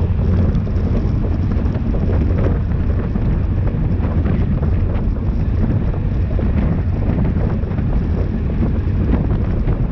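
Steady wind buffeting on the microphone of a camera moving at speed on a racing bicycle, with a low, even rush that does not let up.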